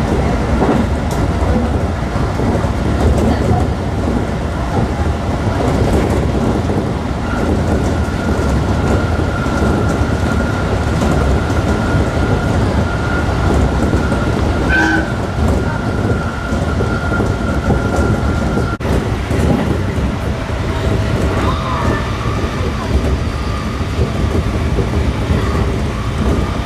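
Freight train passing close by: a loud, steady rumble and clatter of wagons running over the rails, with a thin high tone from about a quarter of the way in to past the middle.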